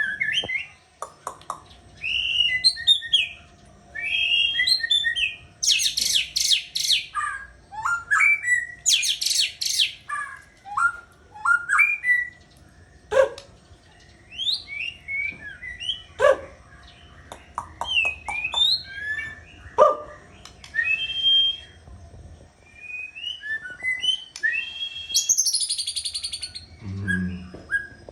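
White-rumped shama singing a long, varied song of clear whistled notes that slide up and down, broken by rapid buzzy trills about six and nine seconds in and again near the end.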